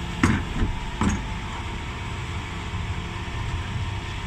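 Dennis Elite 6 bin lorry engine running steadily, with two sharp knocks in the first second or so.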